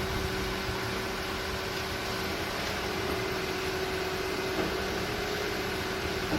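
Steady background hiss with a faint constant low hum, unchanging throughout.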